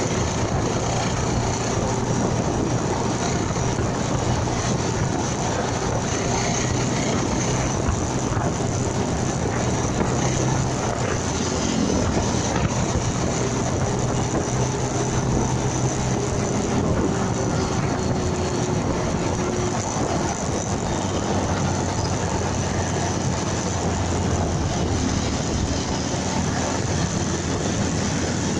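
Motorcycle engine running steadily while riding, with road and wind noise on the microphone. The engine's tone shifts slightly about twenty seconds in.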